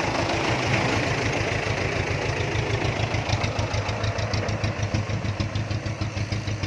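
Dump truck's diesel engine running steadily nearby, with a fast, even ticking clatter that comes in about three seconds in.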